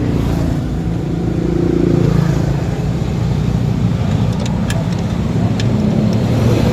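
A car engine running steadily, with a few faint light ticks about two-thirds of the way through.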